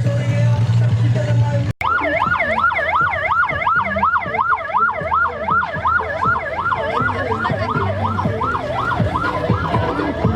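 Electronic yelp siren, its pitch sweeping rapidly up and down about three times a second. It starts suddenly about two seconds in, cutting off heavy bass music.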